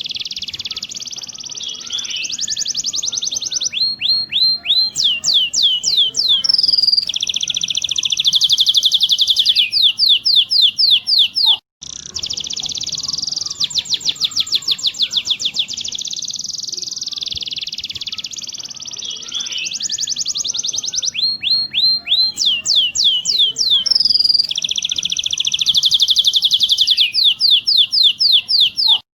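Domestic canary singing: fast rolling trills and rapid falling sweeps, high-pitched and loud. The song cuts out for a moment about twelve seconds in, then the same phrases start over.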